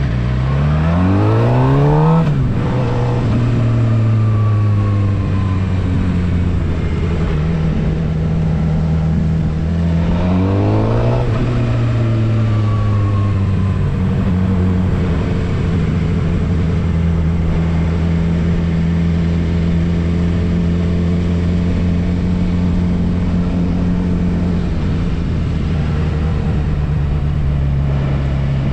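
Suzuki GSX-R750's inline-four engine under way. It accelerates hard twice, at the start and again about ten seconds in, the pitch climbing and then dropping sharply at each upshift. It then cruises at a nearly steady pitch.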